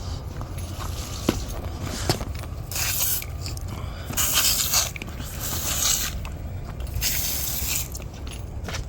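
Pre-treatment cleaning solution sprayed onto moldy concrete, hissing in several separate bursts of about half a second to a second each, over a steady low hum.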